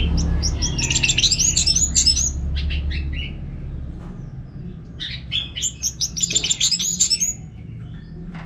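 Orange-headed thrush (anis merah) singing in two long phrases of quick, varied, high chirping notes, with a short pause between them. A low hum sits under the first phrase.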